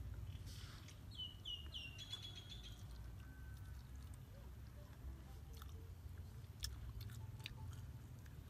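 A person biting and chewing crispy fried chicken, with scattered sharp crunches in the second half. About a second in, a bird calls: three quick falling notes and then a short trill.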